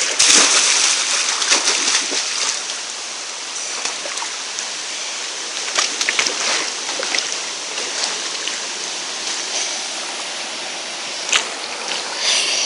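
Steady rush of a waterfall and stream, with scattered splashes in the water, the strongest about a second in and again near the end.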